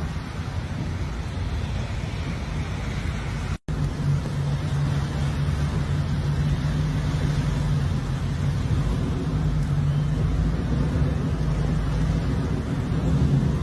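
A car engine running steadily under a constant noisy hiss, with a clean break about three and a half seconds in, after which the low engine hum is stronger.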